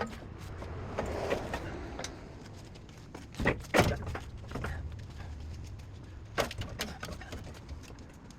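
Metal clunks, scrapes and knocks as a 6.0 LS V8 engine is worked into the truck's engine bay and pushed against a transmission that is not lined up with it. There are two loud knocks about three and a half seconds in and another near six and a half, over a low steady hum.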